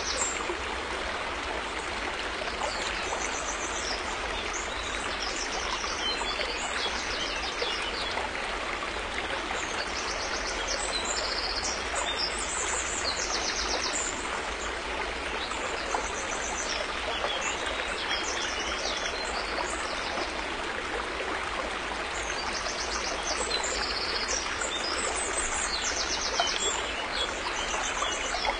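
River water flowing and rushing steadily. A high, rapidly pulsed trill recurs every few seconds above the water.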